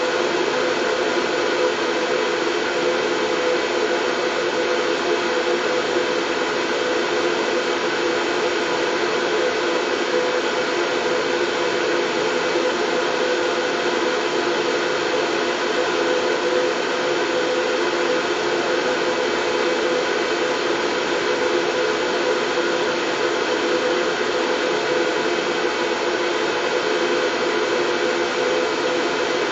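Steady white noise for soothing a baby to sleep: an even, unbroken rushing hiss with a steady mid-pitched hum running through it.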